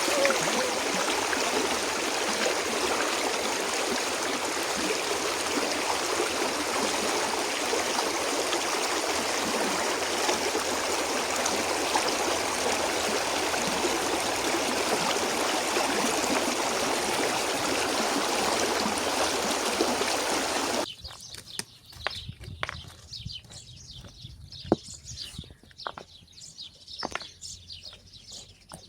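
Flowing stream, a steady rush of running water that cuts off abruptly about two-thirds of the way through. After it, much quieter birds chirping with scattered light clicks.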